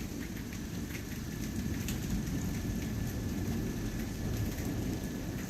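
Steady rain falling during a thunderstorm, with a low continuous rumble underneath and scattered sharp drip ticks.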